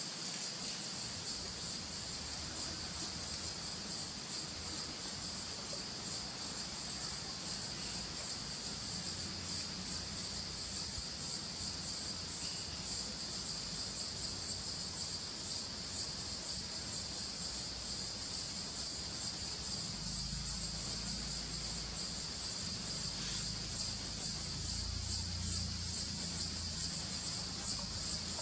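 Steady chorus of insects, a high, rapidly pulsing buzz that does not stop, with a faint low rumble in the second half.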